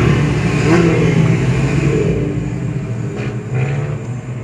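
Motorcycle engines revving as a pack of bikes rides through highway traffic, rising and falling in pitch several times over a steady road rumble.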